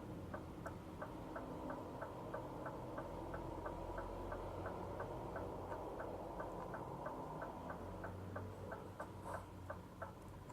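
Turn-signal indicator ticking steadily inside a Scania truck's cab, about three clicks a second, over the low hum of the engine. Near the end the clicks come in pairs.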